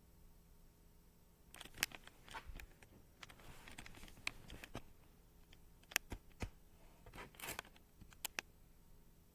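Faint handling noise: scattered sharp clicks and short bouts of rustling, starting about a second and a half in and dying away near the end.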